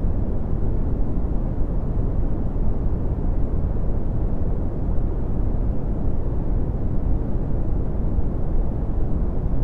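Red (Brownian) noise: a steady, deep rumbling hiss, loudest in the bass and falling away toward the treble, with no changes or events.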